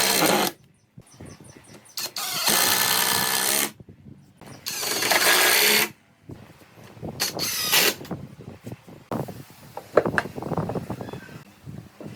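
A handheld power tool run in four short bursts of one to two seconds each, followed by scattered knocks and clatter of work being handled.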